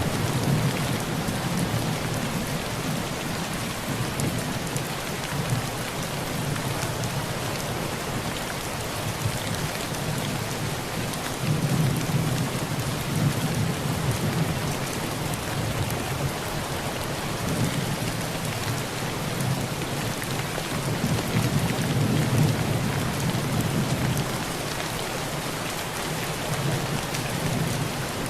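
Heavy rain pattering steadily on a tin roof, with low rolls of thunder rumbling and swelling several times underneath.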